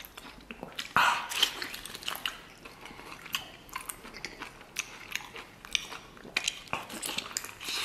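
A person biting and chewing a braised cow hoof: wet, sticky gnawing on the soft gelatinous skin and tendon, with many small mouth clicks and smacks. A louder bite comes about a second in and another near the end.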